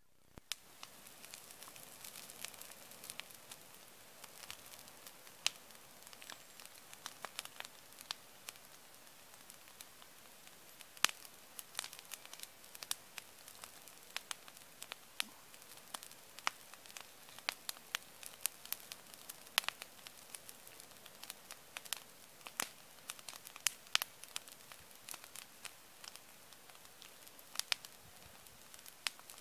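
Wood bonfire crackling: a steady hiss of flame with frequent, irregular sharp pops and snaps.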